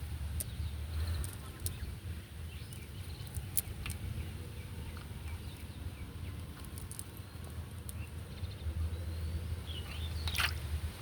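Outdoor ambience: a steady low rumble with scattered sharp clicks and a few short chirps near the end.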